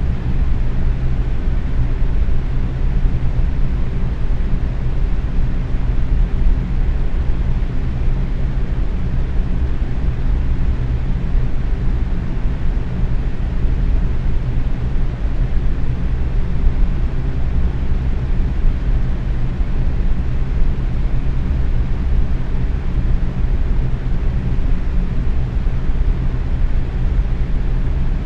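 Box fan running steadily at medium speed: an even rush of moving air with a low motor hum underneath.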